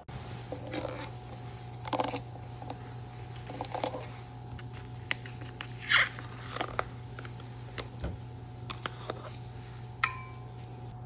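Small handling sounds: scattered light clicks and scrapes, a louder rustle about six seconds in, and a sharp clink with a short ringing tone near the end, over a steady electrical hum.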